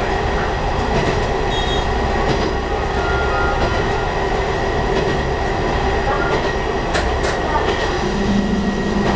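Hisatsu Orange Railway local diesel railcar running along the track, heard from inside the cab: a steady rumble of engine and wheels on rail, with a couple of sharp clicks about seven seconds in and a deeper hum joining near the end.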